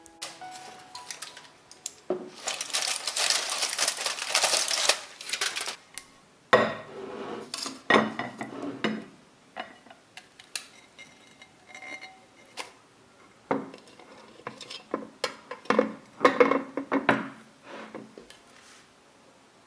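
Kitchen dishes and cutlery clinking and clattering in a series of separate knocks, with a steady hiss for about three seconds near the start.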